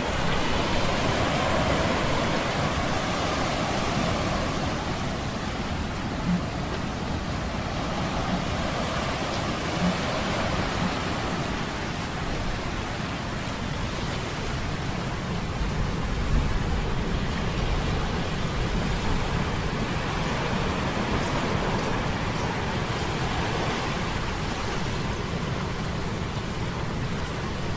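Sea storm sound effect: a steady rush of surf and wind that slowly swells and eases, with a couple of faint knocks.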